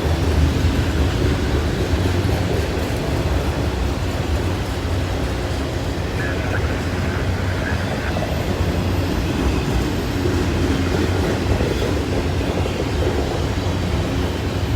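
Freight train cars rolling past close by, a steady rumble of steel wheels on rail with a faint clickety-clack.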